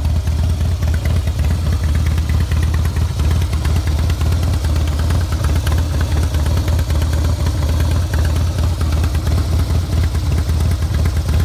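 Harley-Davidson CVO Deluxe's Screaming Eagle V-twin engine idling steadily.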